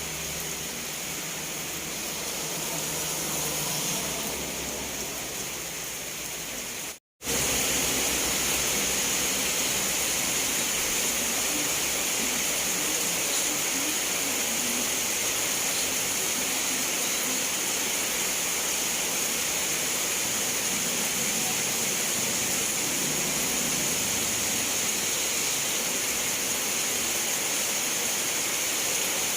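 Steady rain hiss. It cuts out for a split second about seven seconds in, then resumes slightly louder and even.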